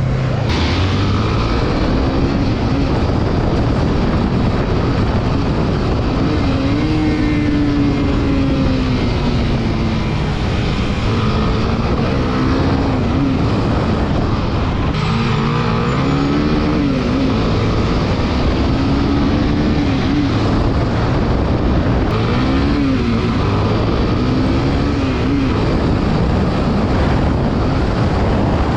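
Yamaha MT-03 motorcycle's parallel-twin engine under way, its pitch rising and falling again and again as the throttle is opened and closed, over a steady rush of riding wind.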